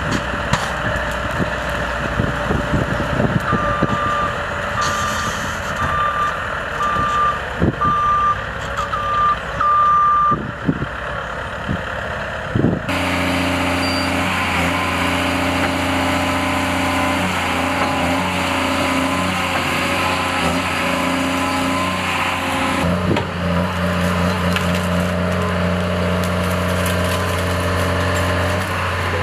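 Heavy machinery working: a reversing alarm beeps about once a second over engine and clatter in the first ten seconds. From about 13 seconds in, a machine engine runs steadily.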